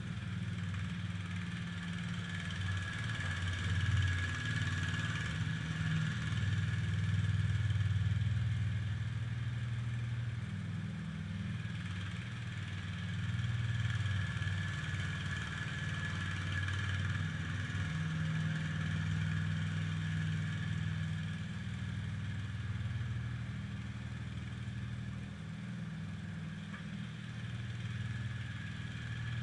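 IH Cub Cadet 147 garden tractor's single-cylinder engine running steadily under load while plowing snow. Its level swells and eases every few seconds, with a steady high whine above it.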